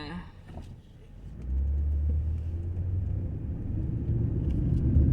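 Low, steady rumble of a moving car. It comes in about a second and a half in and grows louder toward the end.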